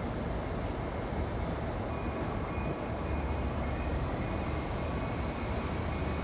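MBTA switcher locomotive's diesel engine running, a steady low rumble with faint high whines from the train above it.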